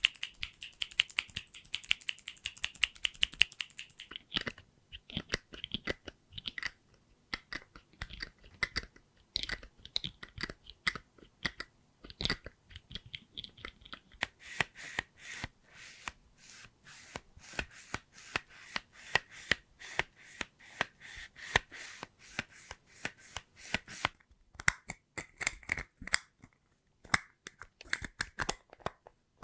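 Close-miked ASMR trigger sounds: a run of quick clicks and taps on small objects that changes character every few seconds, with a dense crackling stretch in the middle and a brief pause near the end.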